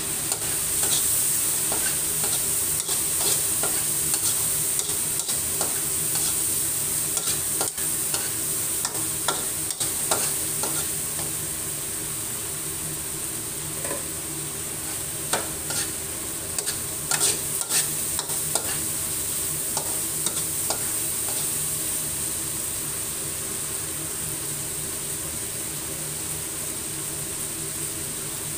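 Chopped pork sizzling as it fries in a wok, stirred with a spatula that scrapes and clicks against the pan; the clicks come often at first and die away in the last third, leaving only the steady sizzle.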